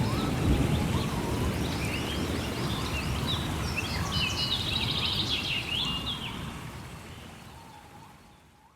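Songbirds chirping and singing over a low, rumbling rain ambience, the whole fading out to silence over the last few seconds.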